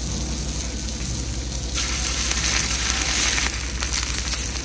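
Food frying on a hot camp stove griddle: a steady sizzle that swells louder for about a second and a half, around two seconds in.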